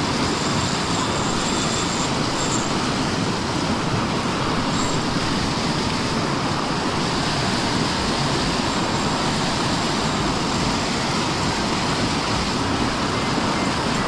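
Steady rush of fast-flowing river water in flood.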